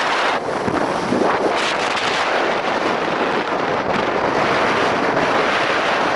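Strong gusting wind buffeting the microphone over rough sea surf, a steady dense rush with no breaks.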